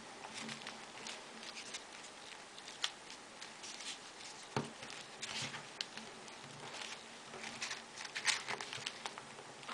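Folded paper origami units rustling and clicking irregularly as they are pushed into a modular 3D origami model, with one sharper knock about halfway through.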